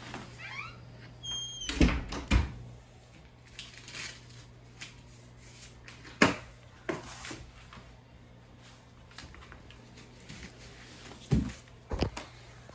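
A few scattered knocks and thumps, as of things being handled and set down on a tile floor. The loudest are two close together about two seconds in, another around six seconds, and two more near the end.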